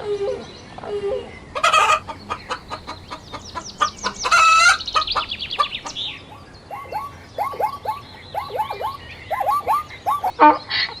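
Chickens clucking and calling. A fast run of short high calls is followed by a louder call about four seconds in, then repeated short clucks coming in quick groups.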